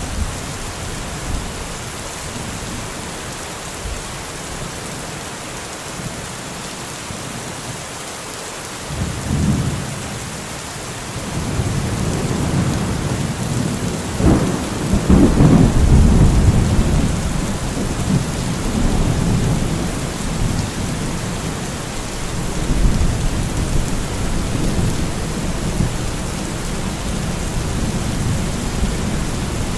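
Steady rain falling, with a short rumble of thunder about nine seconds in and a louder, longer peal of thunder from about fourteen seconds that rolls on for several seconds.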